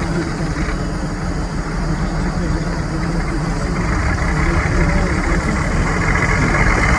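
Heavy truck-trial truck's diesel engine running, getting gradually louder, with a higher-pitched noise joining in about four seconds in.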